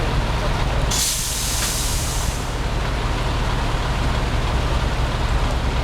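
Engine running steadily with a low drone. About a second in, a sudden burst of hiss cuts in and lasts about a second and a half.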